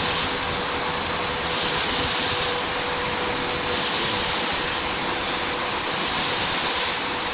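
IMA BIMA Gx60 wood CNC machining centre running: a steady hissing machine noise with a faint steady hum underneath, swelling and easing about every two seconds.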